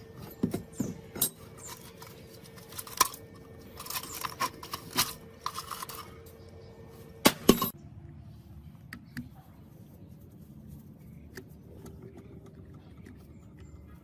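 Metal parts and tools clinking and tapping against each other, with a cluster of loud knocks a little past seven seconds in, then only scattered faint ticks.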